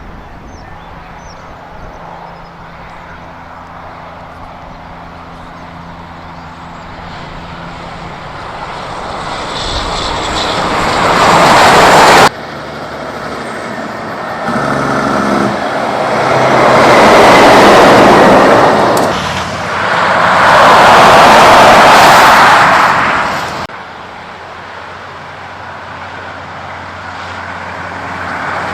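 Heavy trucks passing close by on the road, engine and tyre noise swelling to a loud peak and falling away. The sound cuts abruptly twice to new passes, with two loud passes close together in the middle.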